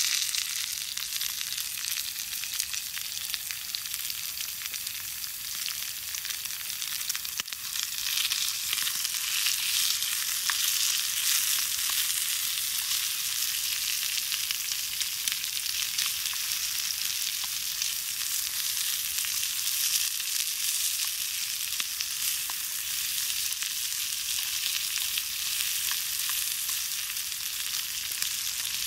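Meat and green tomatoes sizzling in a frying pan over a campfire, with small scattered pops. The sizzle grows louder about eight seconds in.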